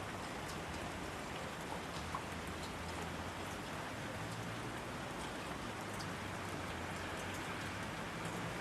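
Steady rain falling: an even hiss of rainfall with scattered individual drops ticking through it.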